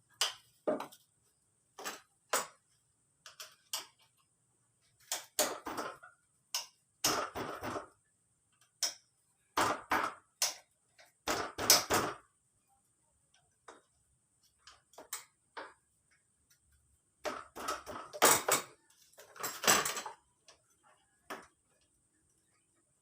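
Hand tools and metal engine parts clicking, clinking and knocking at irregular intervals, with short scraping clusters and quiet gaps between them, as a scooter engine is taken apart by hand.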